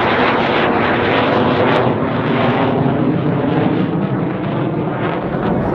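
Hawker Hunter F.6A's Rolls-Royce Avon turbojet, a loud rushing jet noise from the display flight that slowly fades.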